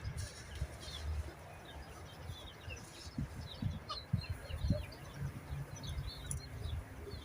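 Birds chirping: many short, high chirps scattered throughout, over low thumps and rumble.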